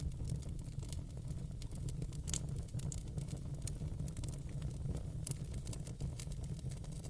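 Wood fire in a fireplace crackling: scattered sharp pops and snaps, several a second, over a steady low rumble of the flames.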